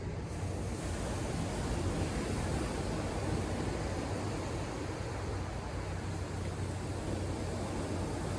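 Ocean surf breaking on the shore, a steady rushing wash of waves that swells a little in the first few seconds.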